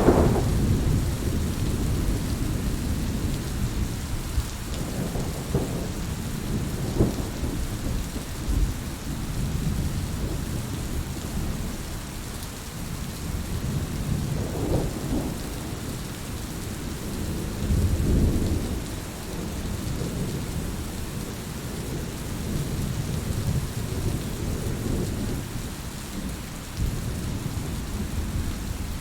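Heavy rain falling steadily, with rolling thunder rumbling low in the background; a big rumble fades out at the start and another swells about two-thirds of the way through.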